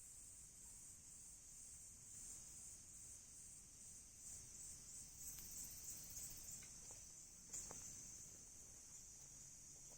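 Crickets chirring steadily in a high, faintly pulsing trill. A few soft pops from the burning wood of a campfire fall in the second half, the loudest a little after the middle.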